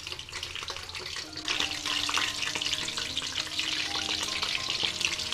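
Pre-boiled chicken pieces sizzling and crackling in hot oil in a wok. The frying grows louder about a second and a half in, then holds steady.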